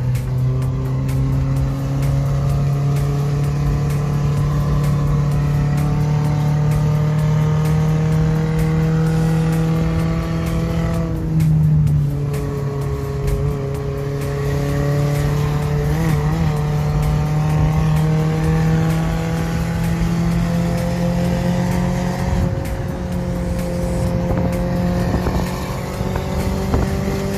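Toyota 3SZ 1.5 litre four-cylinder engine in a VW bus pulling steadily, its pitch climbing slowly and dropping twice, about eleven seconds in and again near twenty-two seconds, like upshifts through the VW four-speed gearbox.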